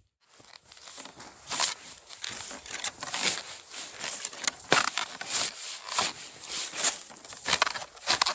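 A shovel digging and scraping snow in a series of irregular crunching strokes, about one or two a second.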